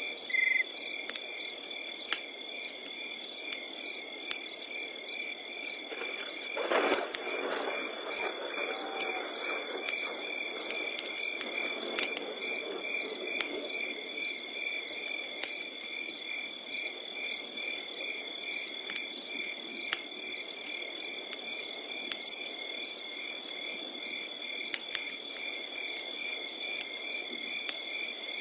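Crickets chirping steadily in a fast, even rhythm over a crackling wood campfire with scattered sharp pops. About seven seconds in comes a brief louder, lower sound.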